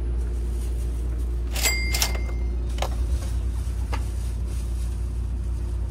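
Steady low hum inside a Thunderbird limited-express carriage standing at the platform, with a few sharp clicks and a brief high beep about two seconds in.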